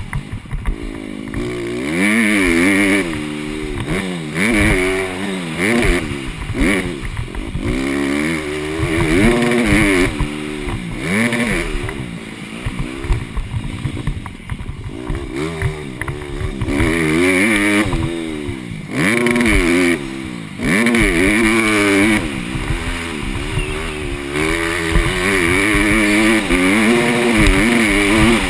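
Honda CRF150R's single-cylinder four-stroke engine, heard from the rider's helmet, revving up and dropping back over and over as the bike is ridden hard.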